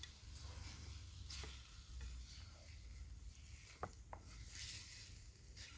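Faint sizzling from a pot of tomato sauce cooking over a wood fire, with a few sharp crackles scattered through it.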